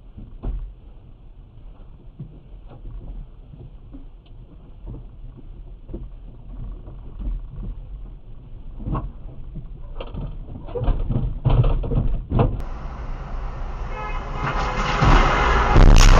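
A car's road and engine rumble picked up by a dashcam, with scattered knocks and growing louder. Near the end, after a cut to another recording, a car horn sounds repeatedly over traffic noise.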